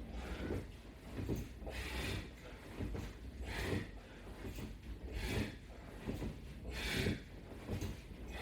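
A man breathing hard through a set of crunches: a sharp exhale about every 1.7 seconds, one with each repetition, with soft rubbing between breaths.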